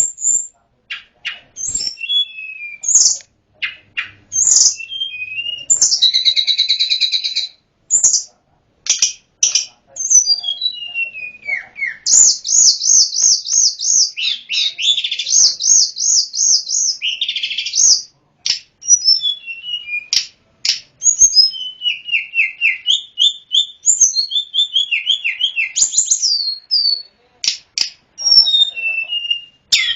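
Tledekan gunung singing a varied, loud song of short sharp notes, falling whistles and fast rattling trills, phrase after phrase with brief pauses between them.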